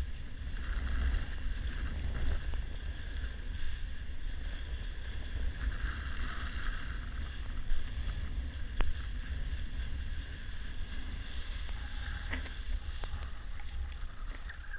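Wind buffeting the microphone in a steady low rumble over the rushing wash of surf.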